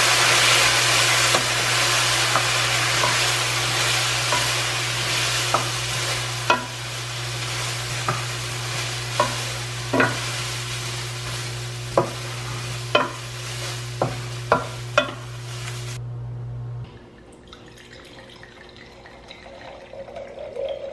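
Food frying and sizzling in a pot while a utensil stirs it, with sharp taps of the utensil against the pot about once a second in the middle stretch. A steady low hum runs underneath. The sizzling stops about sixteen seconds in and the hum a second later, leaving only a faint background.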